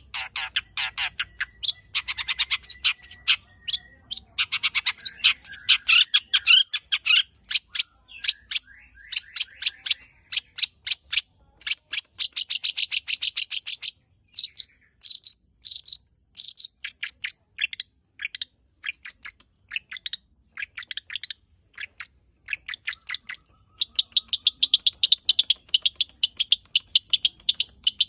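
Long-tailed shrike (cendet) singing a long, varied song of rapid chattering notes, with a couple of short breaks between phrases.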